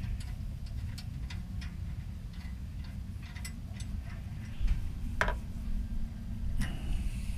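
Scattered light clicks and taps of small metal hardware being handled, a little louder about five seconds in, over a steady low hum.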